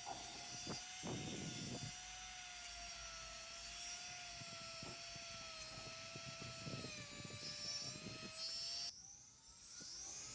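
Rotary tool fitted with a wire wheel running at a steady high whine, with scratchy bursts as the wire brush strips remnants of paint from a diecast metal casting. Near the end the sound breaks off and the tool spins up again with a rising whine.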